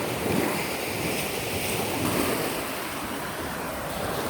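Ocean surf washing on the beach, swelling and easing, with wind buffeting the microphone.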